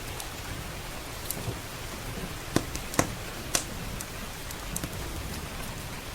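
Steady rain hiss, with sharp pops from a crackling wood fire: three loud ones in quick succession around the middle and a few fainter ones scattered through.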